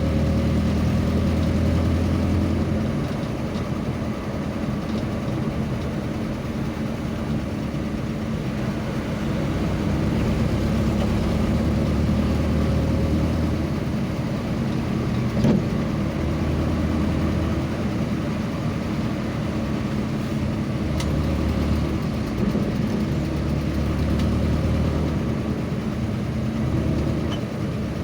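A vehicle engine running steadily, its low hum swelling and easing slightly as it is driven, with one short knock about halfway through.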